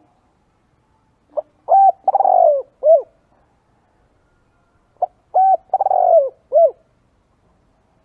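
Spotted dove calling: two cooing phrases about three and a half seconds apart, each a run of short coos around a longer note that falls in pitch.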